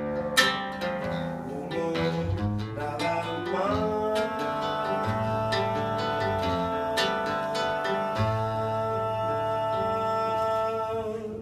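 Live acoustic guitar music closing out a song: plucked strums at first, then a long held note that slides up about four seconds in and is sustained over the guitar until the music stops near the end.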